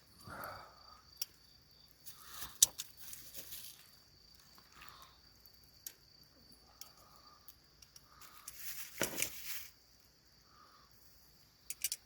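Crickets chirping steadily, with scattered sharp clicks and a couple of short hissing bursts, the louder one about nine seconds in.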